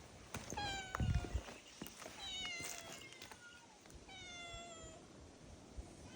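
A stray cat meowing three times, each a drawn-out call that falls in pitch. A low thump comes about a second in.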